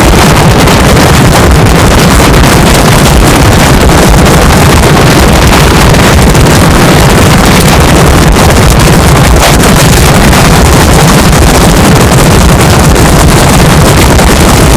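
Heavy wind buffeting a handheld camera's microphone in tornado winds: a steady, very loud, distorted noise with no breaks. The audio has been put through a "G major" pitch effect, which gives the noise a low droning pitch.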